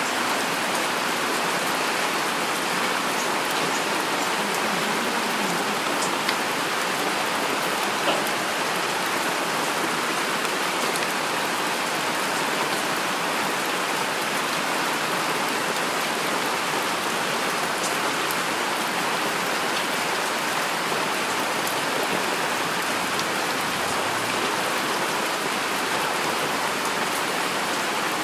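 Heavy rain falling steadily, an even hiss of rainfall with a few sharper drop ticks about 6 and 8 seconds in. No thunder.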